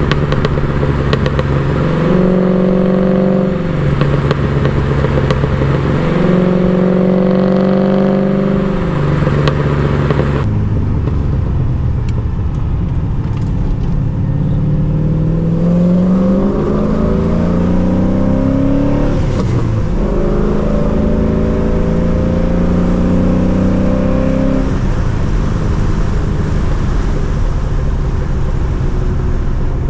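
LS1 V8 engine and exhaust of a swapped BMW E36 under driving, heard from the car. The revs climb steadily, drop sharply as a gear is changed about two-thirds of the way in, climb again, then drop and settle to an even cruise.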